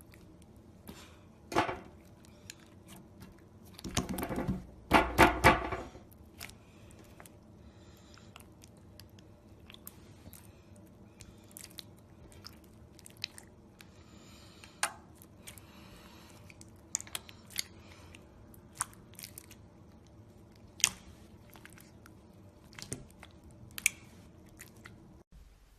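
Slime being squeezed and poked by hand: scattered sticky clicks and crackles, with a louder run of crackling about four to six seconds in.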